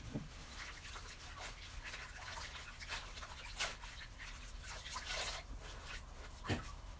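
Faint rubbing and scrubbing from cleaning out a refrigerator, with soft scattered clicks and one sharper knock about six and a half seconds in.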